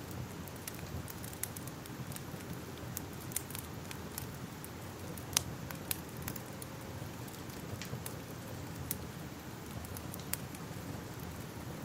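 Fire crackling: irregular sharp pops over a low, steady rumble, with the loudest pop about five seconds in.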